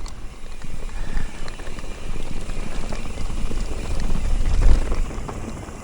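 Mountain bike riding over rough, rocky trail: a steady rumble of tyres on rock and dirt with irregular knocks and rattles from the bike, swelling to a heavy low thump about three-quarters of the way through.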